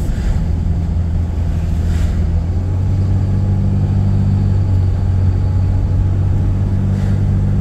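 Car engine and road noise heard from inside the cabin while driving: a steady low drone, with a faint tick about two seconds in.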